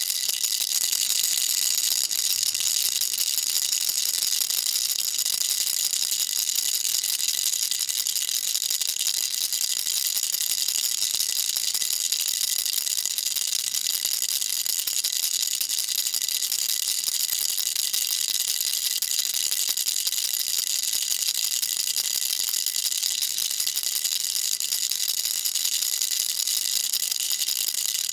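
Baby rattle shaken without pause: a steady, high-pitched rattling with no breaks.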